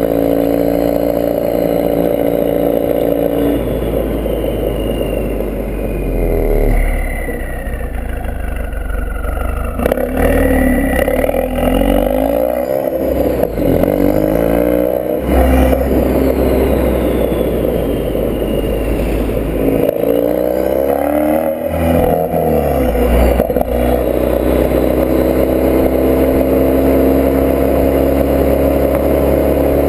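Ford Focus RS mk3's 2.3-litre turbocharged four-cylinder running through a Milltek Sport decat, non-resonated exhaust. It holds a steady drone at the start and end, and its engine speed rises and falls repeatedly in the middle.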